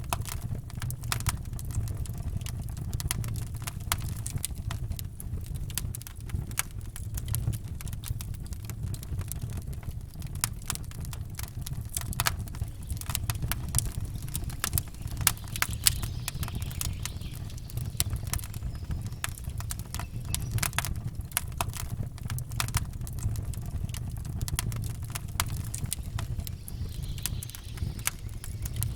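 Campfire crackling: dense, irregular sharp pops and snaps of burning wood over a steady low rumble.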